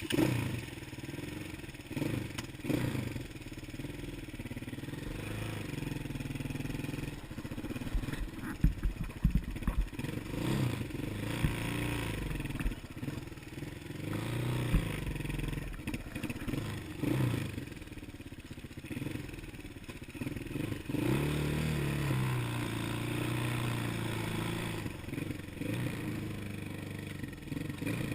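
Small off-road engine running as it is ridden, its pitch rising and falling with the throttle, with a cluster of sharp knocks about eight to ten seconds in.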